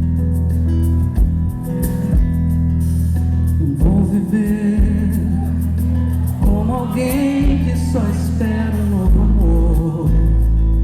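Live band playing a song, with a steady bass line, drum hits and guitar. A singing voice comes in about four seconds in.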